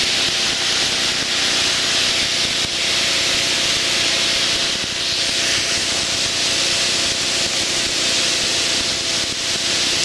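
Steady cockpit noise of a light aircraft in flight: an even rushing hiss of airflow with a faint steady engine drone underneath.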